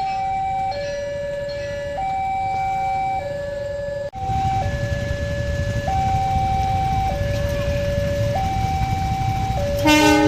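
Railway level-crossing warning alarm sounding a steady two-tone hi-lo pattern, switching pitch about every second and a quarter. After about four seconds a low rumble builds beneath it, and a brief loud tone cuts in near the end.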